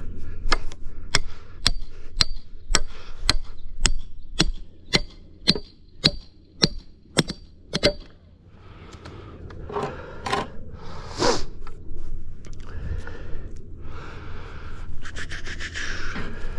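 Hammer blows at a steady pace of about two a second for some eight seconds, each with a slight metallic ring, as a stake or form pin is driven in for the sidewalk forms; then several seconds of scraping.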